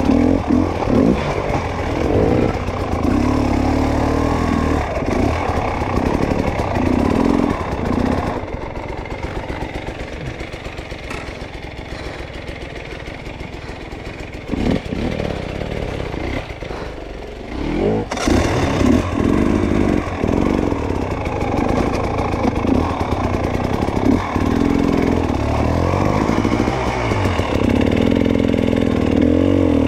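Dirt bike engine being ridden, its pitch rising and falling with the throttle. It eases off to a lower, quieter running in the middle, then revs up again about eighteen seconds in.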